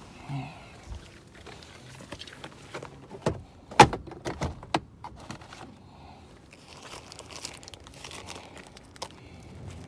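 Rustling and handling noise, with a quick run of sharp clicks and knocks about four seconds in.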